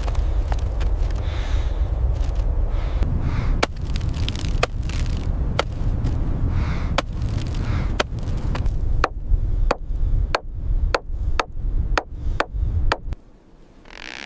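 Sharp knocks repeating over a heavy low rumble, coming faster towards the end, about two a second, before both stop suddenly near the end.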